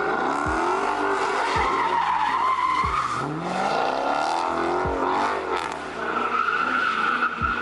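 A car drifting in circles: tires squealing steadily under wheelspin while the engine revs rise and fall again and again with the throttle.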